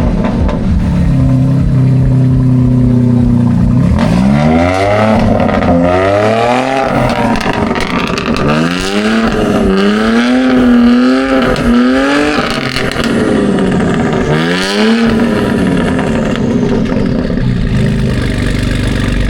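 Car engine revved repeatedly: a steady idle, then from about four seconds in a string of rev blips, each rising and falling in pitch, another near fifteen seconds, then settling back to a steady idle. Loud.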